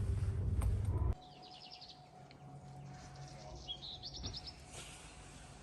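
A loud low rumble cuts off about a second in. After it comes quiet outdoor ambience with a small bird's rapid trilling call, given twice.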